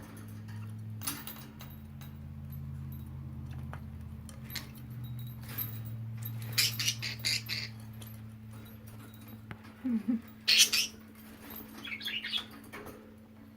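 Pet budgies bathing in a water dish: a few short bursts of chirping and fluttering, loudest about ten seconds in, over a steady low hum.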